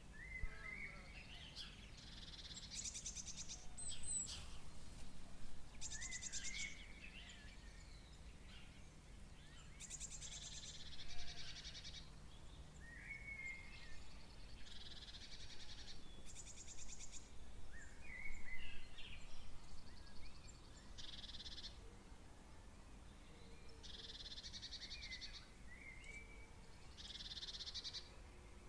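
Night birds calling: high, buzzy trilled calls about a second long repeat every couple of seconds, with softer chirping calls between them.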